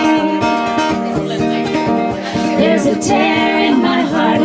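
Live folk song: acoustic guitar playing steadily, with a woman singing from about halfway through.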